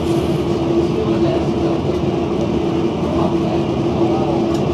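Interior running noise of an AM class electric multiple-unit train travelling at speed: a steady rumble of wheels on track with a constant hum.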